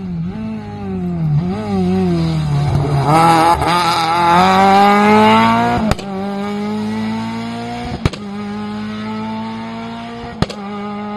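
Rally car engine revving hard and shifting through the gears, its pitch dipping and climbing until it is loudest a few seconds in, then holding a steady note that slowly fades as the car pulls away. Three short sharp cracks stand out over it, about 6, 8 and 10 seconds in.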